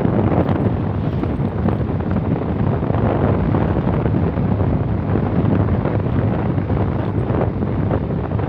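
Steady wind buffeting the microphone, with road and engine noise from travelling along a highway.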